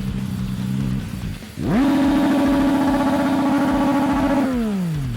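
Motorcycle engine revved hard: the pitch shoots up about a second and a half in, holds steady at high revs for about three seconds, then falls away as the throttle closes.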